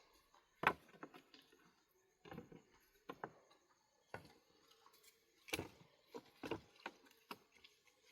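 A series of irregular knocks and taps, the sharpest one about a second in, with clusters of two or three close together.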